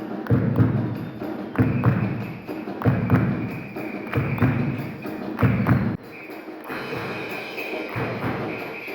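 Live Andean and Latin American instrument ensemble music with a deep drum striking heavy beats roughly once a second. The drum beats stop about six seconds in, and a quieter, more even sound carries on.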